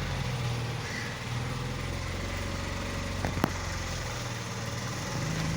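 A boat's engine running steadily with a low hum, and one sharp click about three and a half seconds in.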